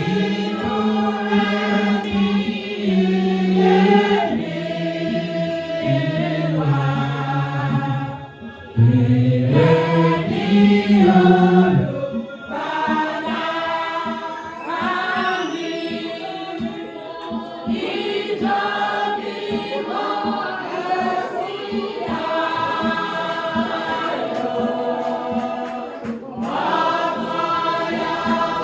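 Church choir singing a hymn, several voices together holding notes that move in steps, with a brief dip about eight seconds in.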